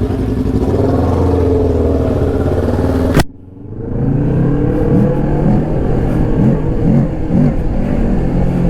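Motorcycle engine running at low revs. About three seconds in there is a sharp click and the sound drops away suddenly, then the engine comes back with several short blips of the throttle.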